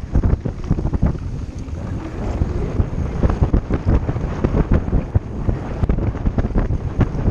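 Wind rushing over the microphone of a mountain bike at speed, with a dense, continuous clatter of knocks and rattles from the bike running over rough ground on a descent.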